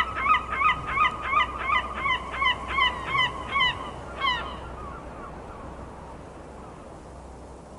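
Seagull calling: a rapid series of short, pitch-bending calls, about three a second, that stops about four and a half seconds in, leaving a faint steady hiss that slowly fades.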